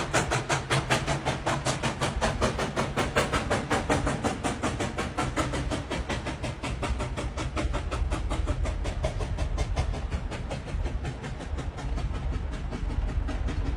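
Old train running, with a fast, even beat of about six pulses a second over a low rumble; the beat grows weaker toward the end.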